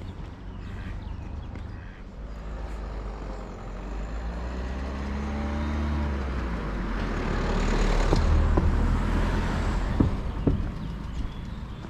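A motor vehicle passing by: its engine and road noise build over several seconds, are loudest about eight to nine seconds in, then fade. Two sharp knocks come shortly after the peak.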